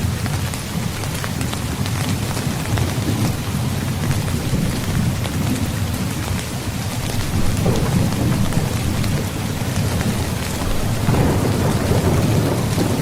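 Steady heavy rain with low rolling thunder rumbling underneath, the rumble swelling about halfway through and again near the end.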